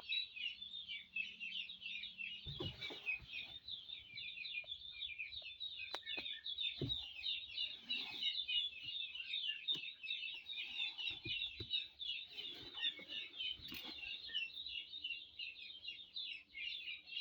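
Many small birds chirping in a dense, continuous chorus of quick high notes, with a few scattered knocks and thuds of handling.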